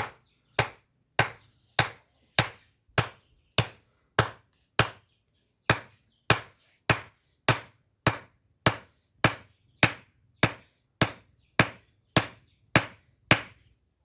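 A tool striking wood in a fast, even series of about two dozen sharp blows, a little over half a second apart, with a brief pause about five seconds in.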